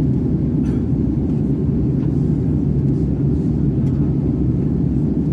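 Steady low cabin rumble of an Airbus A330 in cruise flight: engine and airflow noise heard from inside the aircraft, with a constant low hum.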